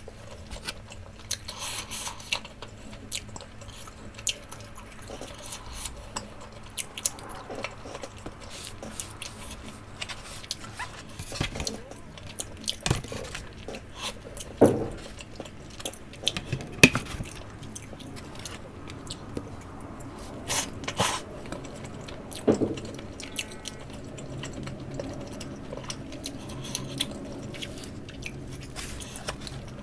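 Close-miked eating of takoyaki: soft, wet chewing and biting sounds with many small clicks and a few sharper knocks.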